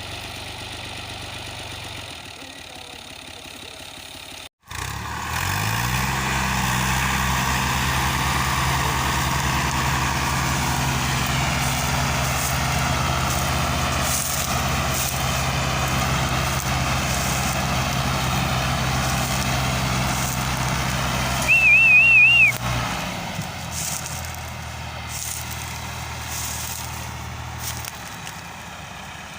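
Al-Ghazi tractor's diesel engine running at a steady speed, coming in suddenly after a cut and settling to an even pitch. About three-quarters of the way through, a short warbling horn sounds, the loudest thing heard. Then the engine drops to a quieter, lower running.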